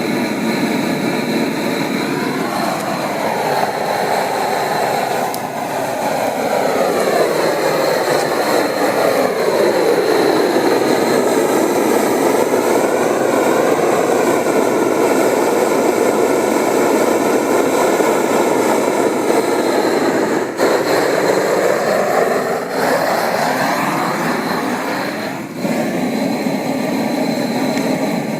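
Loud, steady engine-like roar of a passing vehicle, its tone sweeping slowly down and then back up over some twenty seconds.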